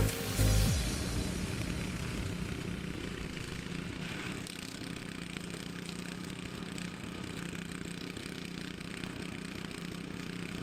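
An engine running steadily at an even speed, after a couple of low thumps in the first second.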